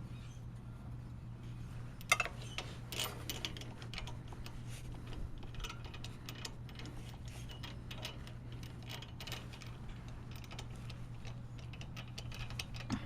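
Light, irregular metallic clicking of a ratchet wrench turning out a spark plug from a lawn mower engine, over a steady low hum.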